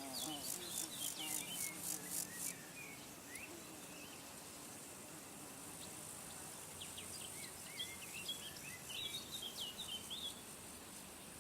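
Small birds chirping in short, quick notes over insects, with a high pulsing buzz about four times a second in the first couple of seconds and a steady high insect hum later on. The chirping falls quiet for a few seconds in the middle, then picks up again.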